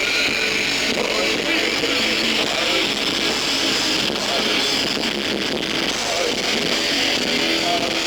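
Rock music with electric guitar played live, heard as a thin, steady wash with almost no bass.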